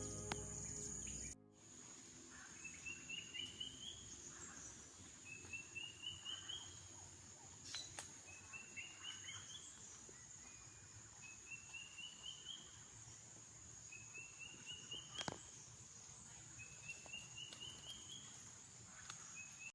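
Faint forest sound: a steady high-pitched insect drone, with a bird repeating a short phrase of quick notes that rise in pitch, about once every three seconds. Background music cuts off about a second in.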